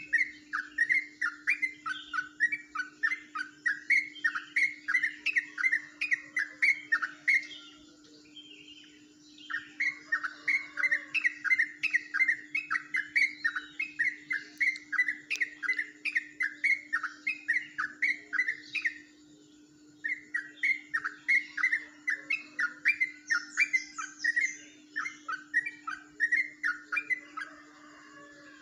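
Yellow-vented bulbul singing its rolling 'ropelan' song: long runs of fast repeated chirping notes, about three a second, broken twice by short pauses. The song's rolling style is unusual for this species. A faint steady hum sits underneath.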